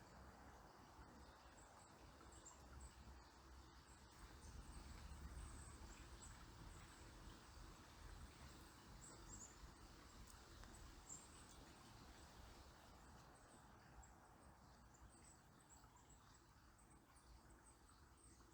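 Faint, steady flow of a calm river, with a low rumble underneath and short, very high, thin chirps from small birds scattered throughout.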